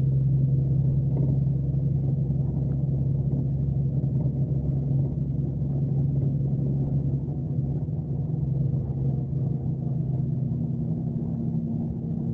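Scania K370C coach's inline six-cylinder diesel engine running under way, heard from on board as a steady low drone. The deepest hum eases off a few seconds in, and a higher steady tone comes up near the end as the engine's pitch shifts.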